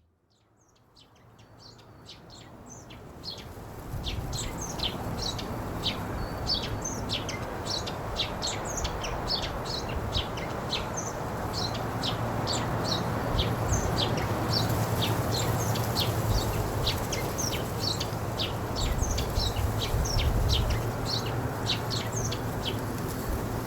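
Small birds chirping and tweeting in quick, rapid calls over a steady wash of ocean surf with a low rumble, the whole fading in over the first few seconds.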